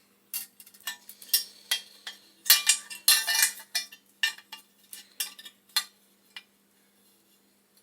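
Small metal parts clinking and rattling against each other as a pilot bracket is worked into line. There is an irregular run of sharp clinks, thickest around the middle, and then they stop.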